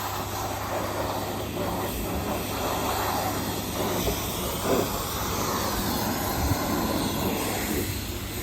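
A steady hissing rush of a high-pressure water spray washing a car.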